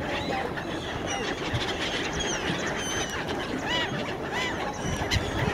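Many birds calling together: short, high, arched chirps overlapping over a steady background hum.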